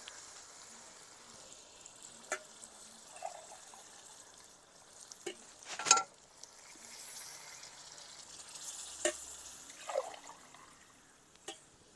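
Chicken masala sizzling in a steel wok on a wood fire while water is poured in from a small steel cup, with a steady hiss and sharp clinks of the cup against the steel pots, the loudest about six seconds in.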